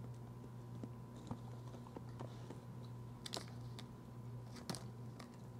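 Faint crunching of a crunchy chocolate cereal-like snack being chewed: scattered small crunches, a few louder ones, over a low steady hum.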